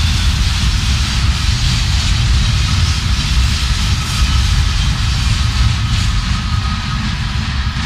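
Freight train rolling past on the rails: a steady, loud rumble and rush of passing railcars, with a faint thin squeal coming in during the last few seconds.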